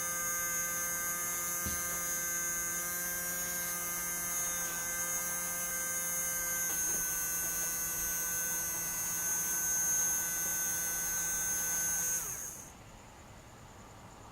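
Steady electrical hum made of several pitched tones, which stops about twelve seconds in, its pitch sagging slightly as it cuts out.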